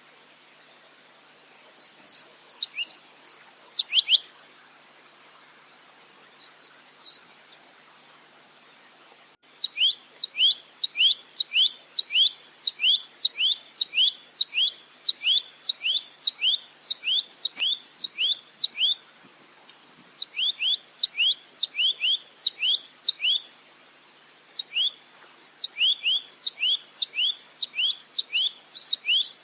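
A velvet-fronted nuthatch (rambatan) calling. For the first nine seconds there are only a few scattered chirps. Then it breaks into long runs of sharp, down-slurred notes, about three a second, with short pauses between the runs.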